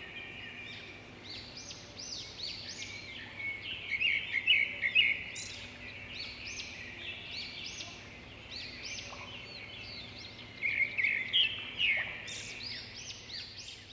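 Several small birds chirping and singing over one another in a dense, continuous chorus of short arching calls, with louder bursts about four seconds in and again near eleven seconds.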